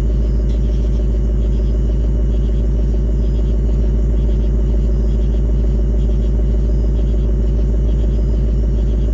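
2025 Ford Mustang GT Premium's V8 engine idling steadily after a cold start, heard through its factory active exhaust as a deep, even rumble.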